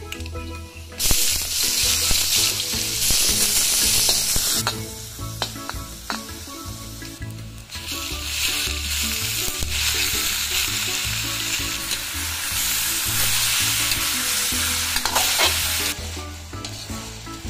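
Food sizzling in hot oil in a stainless steel wok, first garlic, then onions and chunks of pork, as it is stirred, with the spatula clicking and scraping on the pan. The sizzle comes and goes: loud from about a second in for a few seconds, quieter, then loud again through the middle.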